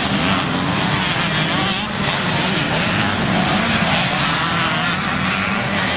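Vintage motocross motorcycle engines running at high revs, several overlapping engine notes wavering up and down without a break.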